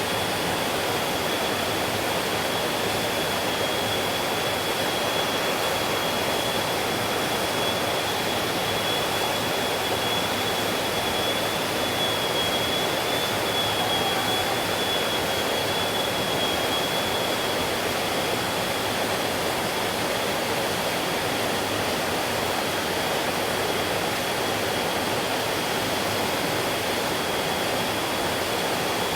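Mountain stream flowing over rocks: a steady, even rush of water that doesn't change, with a thin steady high tone held over it.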